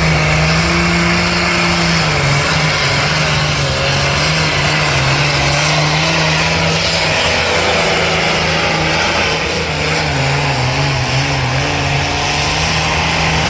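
Competition pulling vehicle's engine held at high, nearly steady revs under heavy load, with a loud rushing exhaust. The pitch sags slightly about two seconds in and again around ten seconds.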